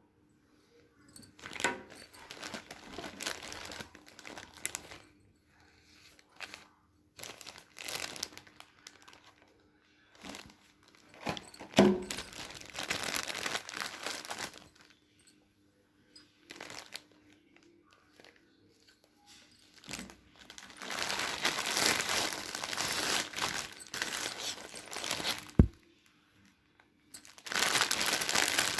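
Crinkling and rustling handling noise in irregular bursts with quiet gaps, and a couple of sharp knocks. Two longer stretches of steady hiss come near the end.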